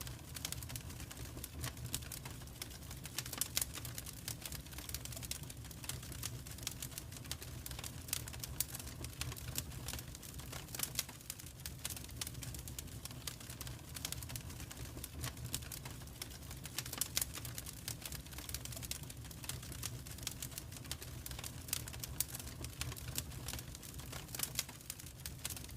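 Wood fire crackling in a fireplace: irregular pops and snaps over a steady low rumble of flame, with a few louder pops.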